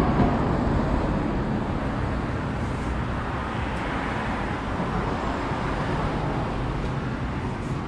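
City street ambience: a steady wash of road traffic noise.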